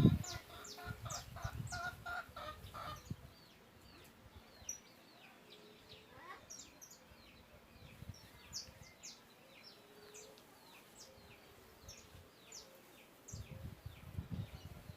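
Bird calls: a repeated clucking call for about the first three seconds, then faint, scattered high chirps.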